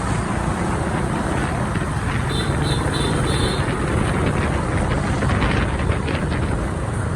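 Riding a motorbike through city traffic: a steady rush of engine, wind and road noise, with a few short high beeps about two to three and a half seconds in.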